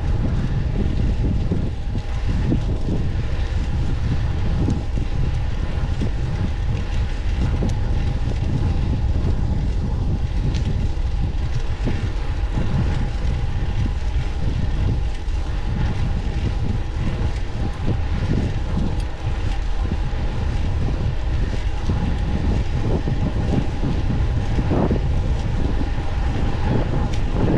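Wind buffeting the camera microphone while riding a fixed-gear bicycle, a steady low rumble of wind and road noise with a faint steady hum above it.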